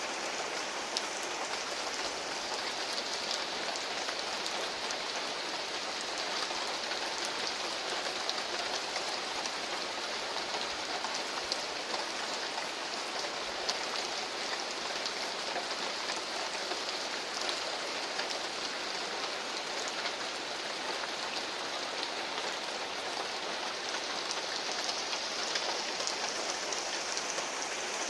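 Heavy rain pouring down, a steady hiss made up of countless small drop impacts.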